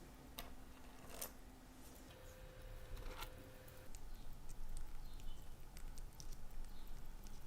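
Faint small clicks and light taps of hand tools and small parts being handled at a watchmaker's bench, more frequent in the second half, over a low steady hum.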